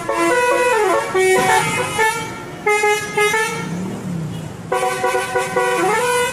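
Bus 'telolet' Basuri horn, a multi-note horn, tooting a quick melody of stepping pitches in repeated phrases. There is a quieter stretch in the middle.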